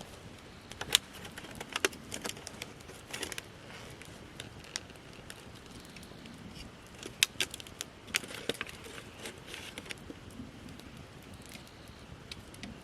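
Campfire of gathered branches crackling, with irregular sharp pops and snaps, the loudest about a second in and again about seven seconds in.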